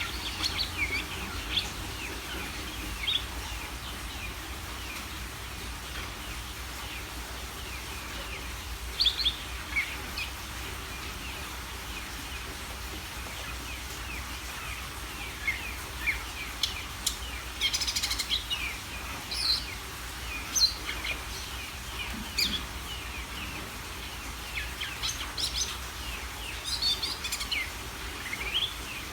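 Cucak ijo (green leafbird) singing in short, scattered bursts of chirps and whistled notes, with brief pauses between phrases and the busiest run about two-thirds of the way through. A steady low hum runs underneath.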